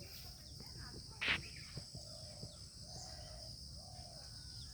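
Garden ambience: a steady high-pitched insect drone, with a brief sharp call about a second in and a few short low calls after it.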